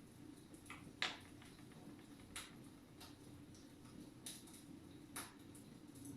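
Wood fire in a fireplace crackling quietly: scattered, irregular pops and snaps, the loudest about a second in, over a faint steady hum.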